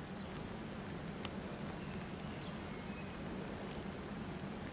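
Light rain falling steadily, with a low steady hum underneath.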